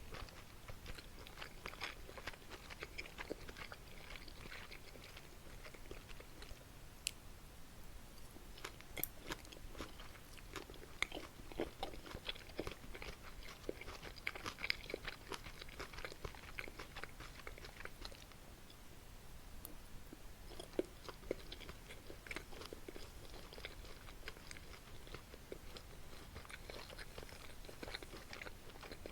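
Close-miked eating sounds of Korean spicy buckwheat noodles and boneless pork feet: steady chewing and biting with wet clicks, crunches and smacks, a few sharper clicks among them.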